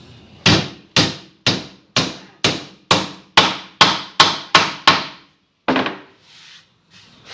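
Hammer driving nails into a hardwood board: about a dozen sharp strikes, roughly two a second, coming a little faster toward the end, then one last blow after a short pause.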